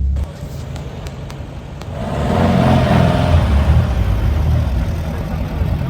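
A car engine running as a car drives by, growing louder about two seconds in, with a low rumble.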